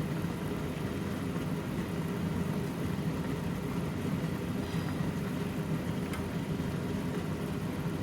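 A steady low mechanical hum, with a faint click about six seconds in.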